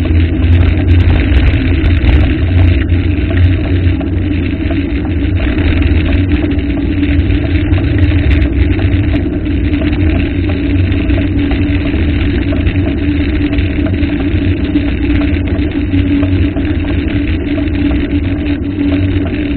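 Waterfall roaring steadily, a constant rush of falling water with a deep low rumble.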